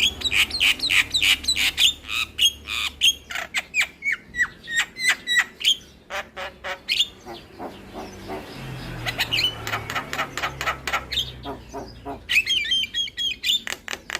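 Javan myna singing a long, varied song: quick runs of chirps, whistles and harsh squawks, with a rougher rasping stretch around the middle.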